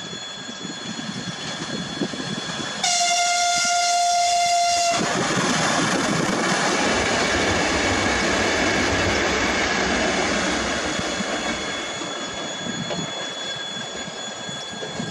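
A multiple-unit passenger train passing close by on the tracks with a steady rolling noise. About three seconds in it sounds one horn blast lasting about two seconds, the loudest sound here. The rolling noise eases off near the end as the train moves away.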